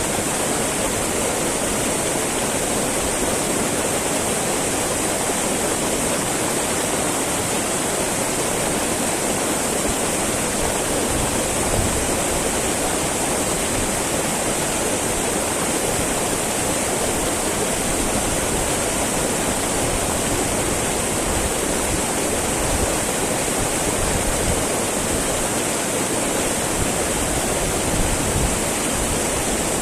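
Small mountain river babbling and rushing steadily over stones, a continuous even wash of flowing water.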